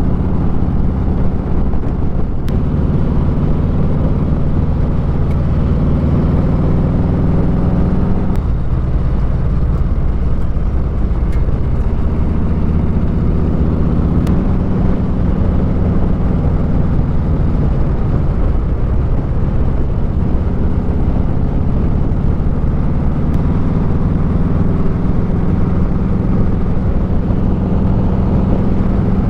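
Motorcycle engine running steadily at road speed, heard from the rider's seat with wind noise; the engine note shifts about eight seconds in and settles again.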